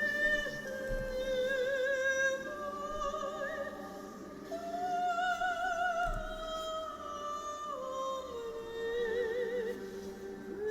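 Orthodox liturgical chant: singing in long held notes with vibrato, moving from one pitch to the next every second or two.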